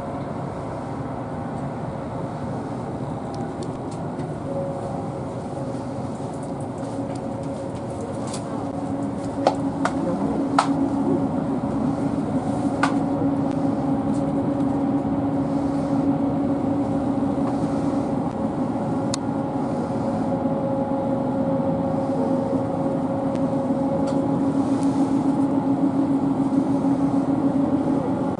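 Plarail toy train running on plastic track: the battery-powered motor gives a steady whine over a rattling hum, with a few sharp clicks about ten seconds in, after which it grows slightly louder.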